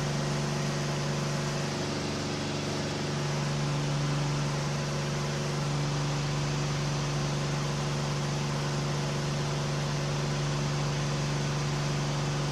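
The KR2 homebuilt light aircraft's piston engine and propeller droning steadily at cruise power, heard from inside the cockpit with airflow noise. The engine note dips slightly about two seconds in, then holds even.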